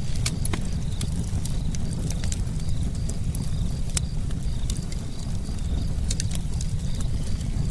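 Campfire crackling: irregular sharp pops and snaps from burning wood, several a second, over a steady low rumble of the flames.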